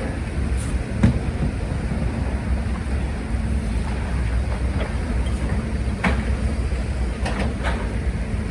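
Diesel engine of heavy earthmoving machinery running steadily, with a few sharp metallic knocks and clanks over it: one about a second in, another about six seconds in, and two close together near the end.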